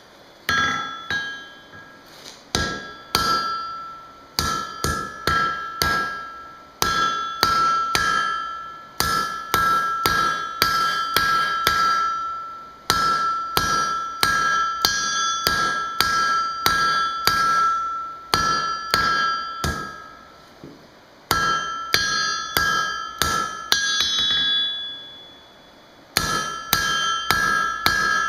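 Blacksmith's hammer striking steel on an anvil, blows coming about two or three a second in runs broken by short pauses, each blow leaving a clear high ring from the anvil. The smith is drawing out a point on a piece of scrap steel with a heavy hammer.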